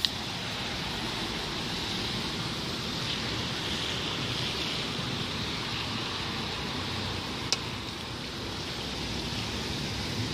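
Heavy rain falling, a steady hiss, with two sharp clicks, one at the very start and one about seven and a half seconds in.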